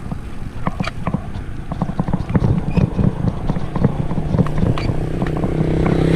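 A run of irregular sharp clicks and knocks. From about five seconds in, a motor vehicle's engine hum grows louder.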